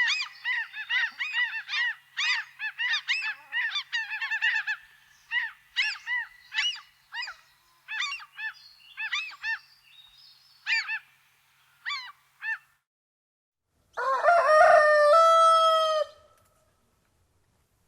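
Geese honking in a rapid series of short calls that thin out and stop about twelve seconds in. After a short pause comes one different, drawn-out call with a steady pitch lasting about two seconds.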